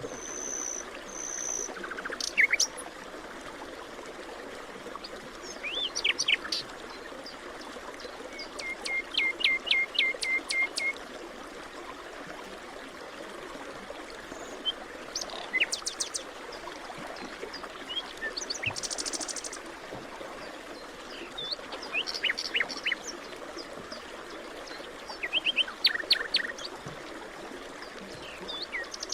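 Forest birds calling and singing in short, scattered phrases over a steady background hiss. Near the middle one bird gives a quick run of about eight even notes on one pitch.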